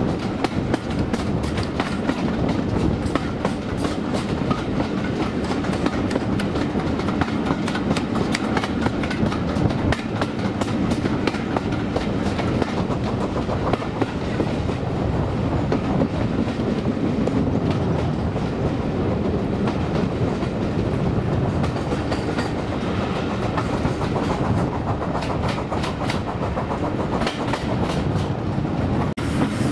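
Coaches of a steam-hauled train running along the line: a steady rumble of wheels on the rails with a running clickety-clack of the wheels over the rail joints.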